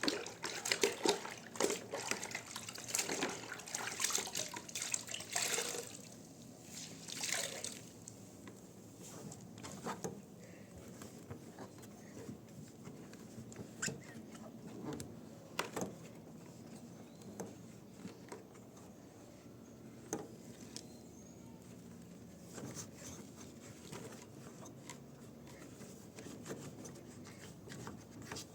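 Water splashing and dripping in a series of bursts for the first several seconds, then settling into occasional light clicks and knocks.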